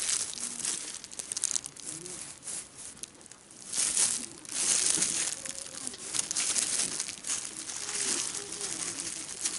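Crinkling and rustling of packaging being handled, in irregular bursts with sharp crackles, loudest about four to five seconds in.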